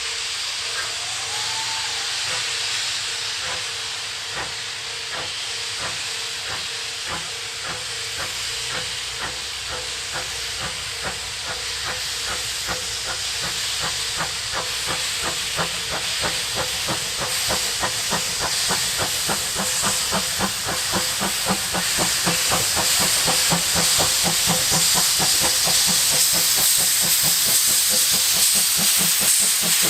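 C12 steam locomotive starting away with its cylinder drain cocks open: a loud, continuous hiss of venting steam over exhaust chuffs that come faster and faster as it gathers speed, growing louder toward the end. The cold, wet weather makes the drain-cock steam exceptionally heavy.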